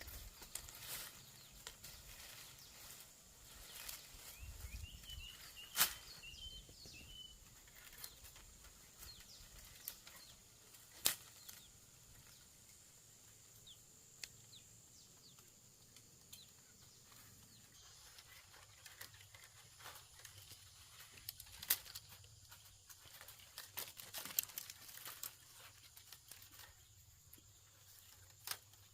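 Quiet outdoor background with a few sharp clicks and snaps scattered through it and a steady high tone. A short bird-like chirp comes about five to seven seconds in.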